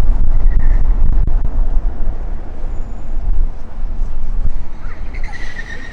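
Gusty wind buffeting the microphone: a loud, fluctuating low rumble that eases somewhat partway through.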